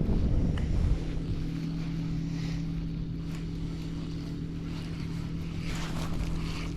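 A boat's motor running steadily: a low rumble that eases about a second in, leaving an even engine hum.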